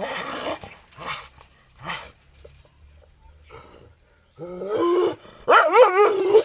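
Kohati Gultair dog barking in short single barks about once a second, then, after a quieter stretch, giving longer whining cries that waver in pitch, loudest near the end.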